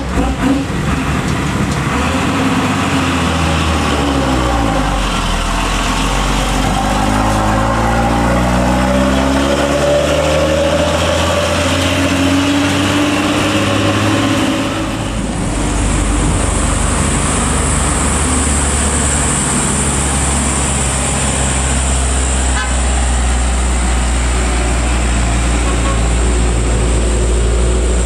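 Heavy truck's diesel engine labouring up a steep climb, its pitch rising and falling as it revs and shifts. About halfway a steady high-pitched whine comes in over a lower, steadier drone.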